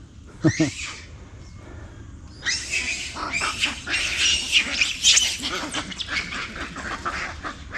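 Macaques screaming in a fight: a short call near the start, then a dense clamour of many overlapping high-pitched shrieks from about two and a half seconds in, dying down near the end.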